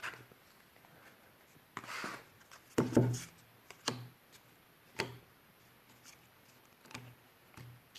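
Decks of board-game cards being handled: a few short knocks and rustles, the loudest about three seconds in.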